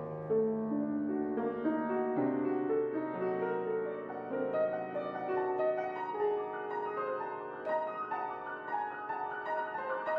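Solo piano playing a slow, impressionistic passage: single held melody notes ring over sustained lower notes, and quicker, shorter high notes come in from about halfway through.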